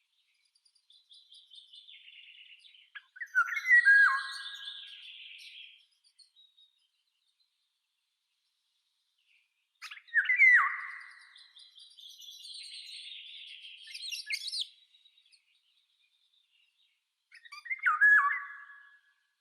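A songbird singing three separate phrases, each a few seconds long: a high trill followed by a few loud, clear whistled notes and a buzzy ending.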